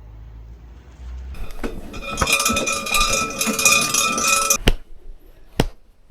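Metallic jingling and ringing with several held tones, lasting about three seconds, followed by two sharp clicks.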